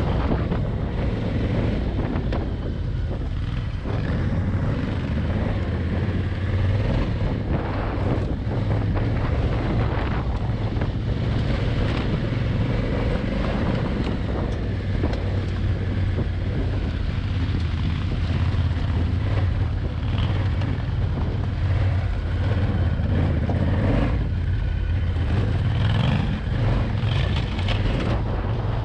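Adventure motorcycle engine running steadily while riding a gravel and dirt track, with wind buffeting the microphone and scattered knocks from the rough surface.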